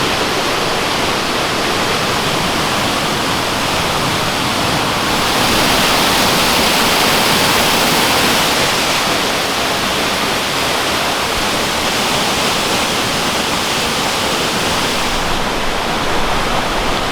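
Waterfall crashing steadily into its pool, a loud even rush of water, somewhat stronger in its hiss between about 5 and 15 seconds in.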